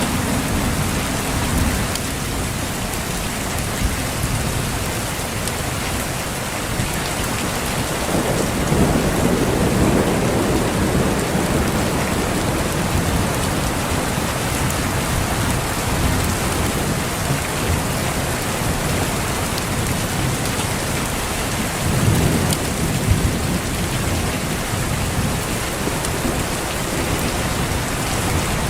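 Heavy rain falling steadily, with low rolls of thunder swelling twice, about eight seconds in and again past twenty seconds.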